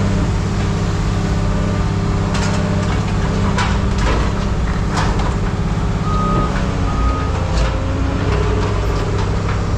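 A heavy machine's engine running steadily, with several sharp clanks and knocks. Two short beeps come about six and seven seconds in.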